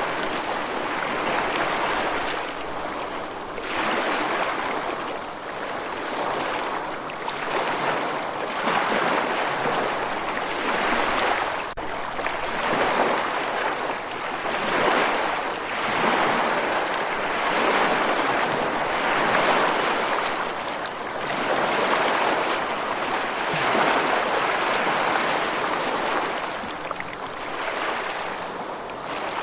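Rushing water, a steady hiss that swells and eases every two to three seconds.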